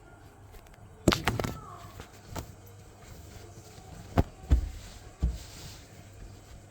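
Plastic Lego pieces knocking and clacking as they are handled, about six sharp knocks spread over a few seconds, the loudest about a second in.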